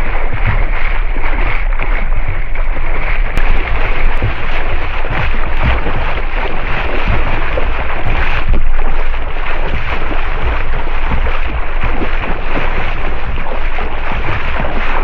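Loud, steady wind buffeting the microphone over the rush of sea water around a boat.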